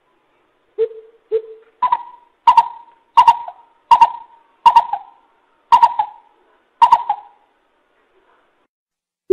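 Coucal hooting: two low hoots, then a run of about six sharper, higher notes at an even pace, stopping about seven seconds in.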